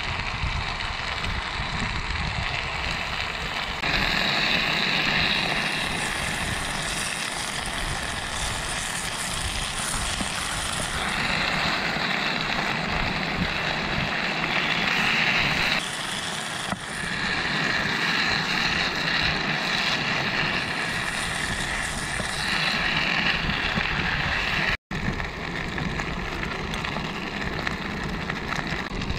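Udon noodles and vegetables sizzling in a frying pan over a Kovea gas camp stove, the burner running with a steady low rush beneath. The sizzle swells louder in several stretches of a few seconds each, and the sound cuts out for an instant near the end.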